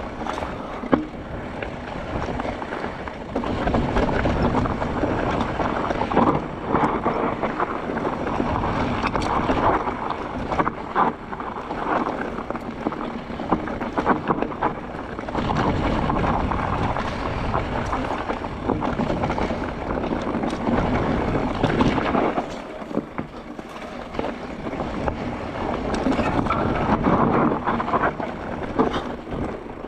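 Wind rushing over the action camera's microphone as a Mondraker Crafty R electric mountain bike runs fast down a dirt forest trail. The tyres rumble over the ground and the bike knocks and rattles over bumps, the noise swelling and easing with speed.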